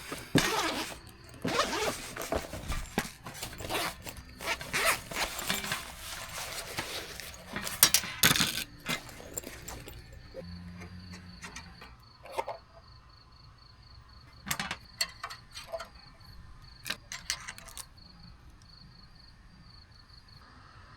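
Camping gear being handled: about ten seconds of rustling and scraping, then a few separate clicks, while an insect chirps in a fast, steady, high trill through the second half.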